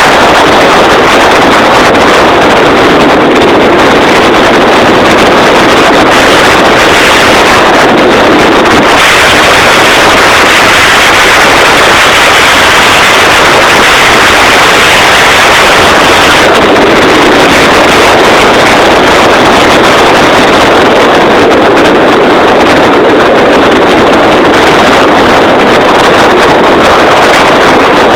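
Motorboat under way: a loud, steady rush of motor, water and wind buffeting the microphone, its tone shifting a little about nine seconds in and again about sixteen seconds in.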